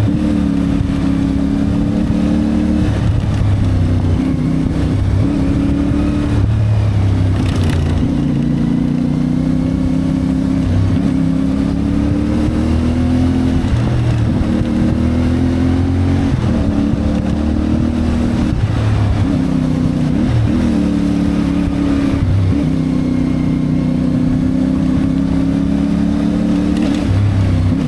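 CFMoto 450MT's parallel-twin engine running under way, heard from the bike. Its pitch climbs and drops again many times as the throttle is opened and closed.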